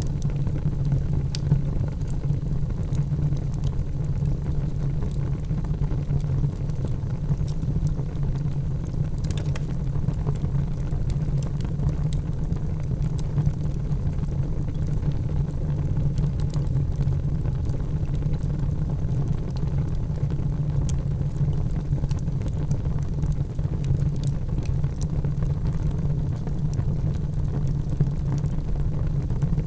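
Wood fire burning in a fireplace: a steady low rumble with sparse, scattered crackles and pops.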